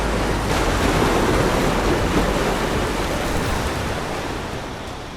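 Ocean surf washing against the shore, a broad rushing swell that builds in the first second or two and then slowly fades.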